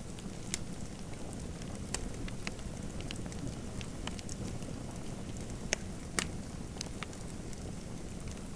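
Fireplace fire crackling: irregular sharp pops and snaps, two louder ones a little past the middle, over a steady low rumble of the burning wood.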